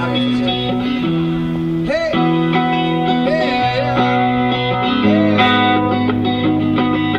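Amplified guitar music through a PA: sustained chords that change about once a second, with some short bending notes above them.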